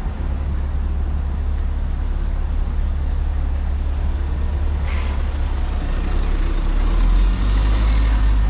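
Street traffic, vehicles going by, with a heavy low rumble that grows louder about seven seconds in, and one short hiss about five seconds in.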